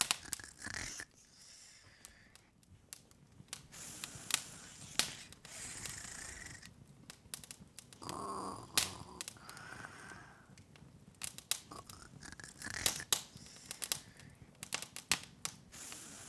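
Open fire crackling: irregular sharp pops and snaps, several a second at times, over a soft hiss.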